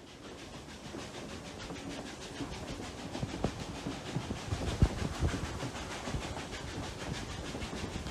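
Steam-hauled train heard from on board: a steady rumble and hiss of the running train that fades up over the first second or two, with scattered knocks through it.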